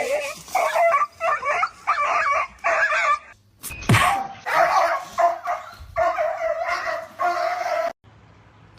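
A dog barking and yipping in quick short runs, two to three calls a second, then giving longer drawn-out calls. A sharp thump comes just before four seconds in, and the sound stops abruptly near the end.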